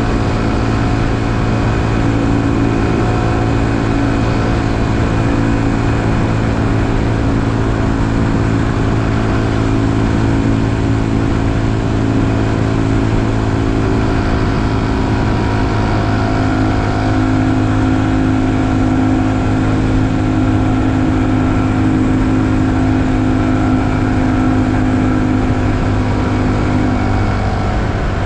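2020 Honda Super Cub's small single-cylinder four-stroke engine running at a steady cruise under a rider, with wind and road noise. The engine note holds almost level throughout and dips slightly near the end.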